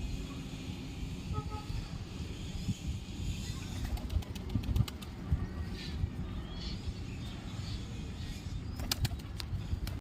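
Pigeons flapping their wings and shuffling about, with bursts of sharp clicks about four seconds in and again near the end, faint chirps, and a steady low rumble underneath.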